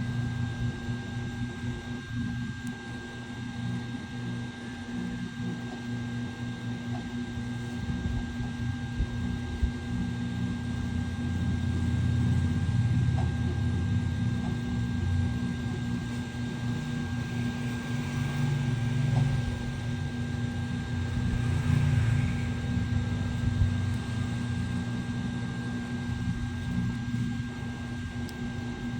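A steady mechanical hum from a small motor, holding fixed tones, over a low rumble that slowly rises and falls.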